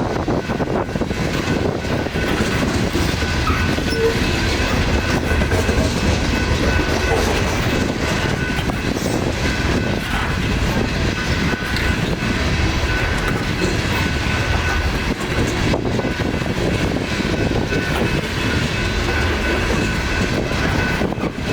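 Loaded coal train rolling past, a steady rumble of wheels on rail with a few faint high tones held through it.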